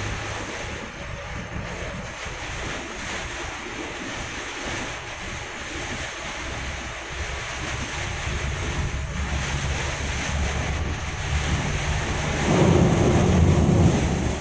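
Heavy rain and road spray rushing against a Scania bus, heard from inside the cab, with the engine's low hum running underneath. Near the end the rush swells louder and deeper.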